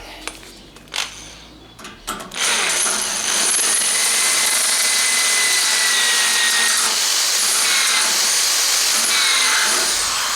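Electric drill boring into a steel door: after a couple of clicks, the drill starts about two and a half seconds in and runs steadily and loudly with a faint whine, stopping near the end. The owner says the drill's chuck is on the way out.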